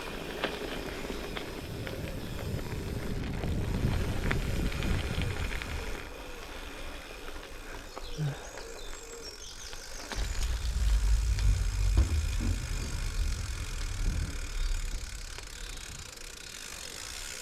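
Gravel bike on Goodyear Connector gravel tyres rolling over a gravel track, with the bike's light rattle. A low wind rumble on the microphone swells for a few seconds past the middle.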